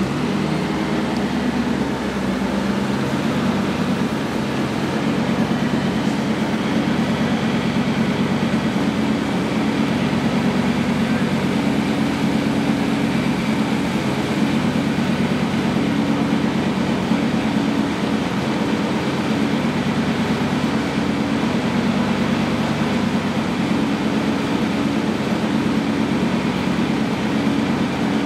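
1935 Duesenberg SJ's supercharged straight-eight engine idling steadily, with a fast, even exhaust pulse.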